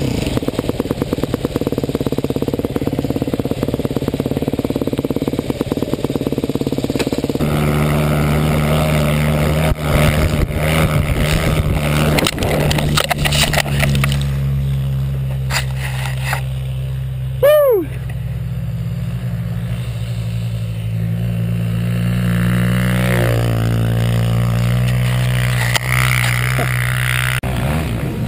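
Dirt bike engines running at fairly steady revs across several clips cut together, with a brief quick sweep in pitch a little past the middle.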